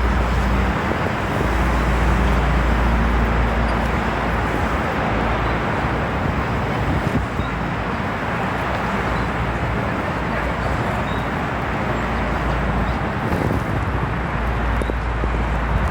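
City street noise: a steady rush of road traffic, with wind rumbling on the microphone.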